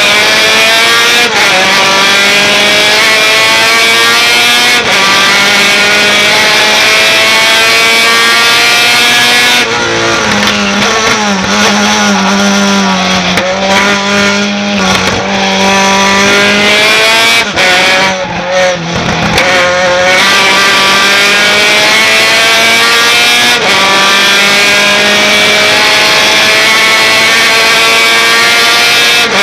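Racing pickup truck engine pulling hard through the gears, the pitch climbing in long sweeps broken by quick dips at each upshift. In the middle the revs jump up and down in a choppy stretch of braking and downshifting, then it climbs again.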